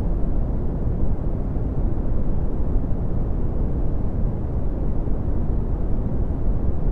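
Red (Brownian) noise: a steady, deep rumbling hiss, strongest in the bass and fading toward the treble, with no changes or events.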